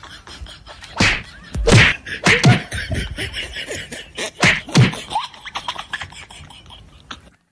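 A series of loud slaps or whacks, about six sharp hits in two clusters: one around one to two and a half seconds in, another around four and a half to five seconds in.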